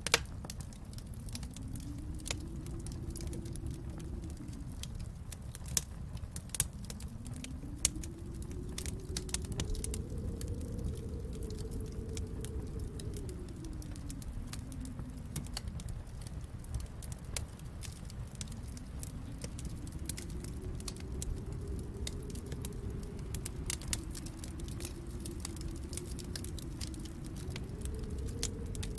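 Wood fire crackling, with scattered sharp pops, a few louder ones near the start and around six to eight seconds in, over a low rumble that swells and fades slowly every several seconds.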